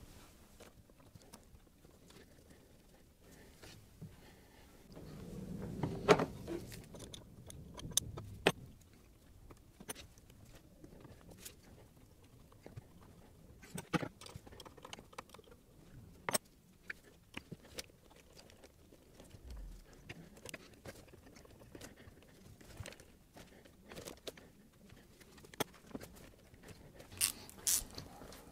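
Scattered light metallic clicks and clinks of hand work on brake pipe union nuts at an ABS pump, with a spell of rustling about five seconds in.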